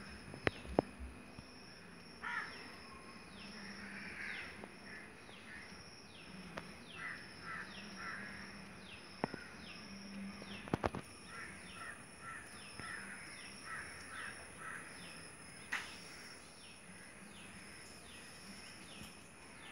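Birds calling: a high, falling chirp repeated steadily a little less than twice a second, with short runs of harsher, crow-like calls now and then. A few sharp clicks near the start, around ten seconds in and near sixteen seconds.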